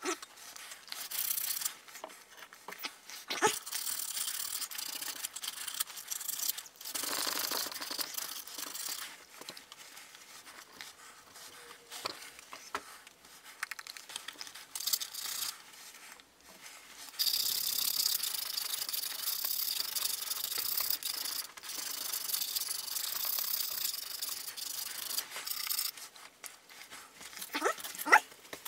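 Sandpaper rubbed by hand over the head-gasket surface of a four-cylinder engine block, a dry scratchy rubbing that comes in spells, with a long steady stretch of strokes in the second half.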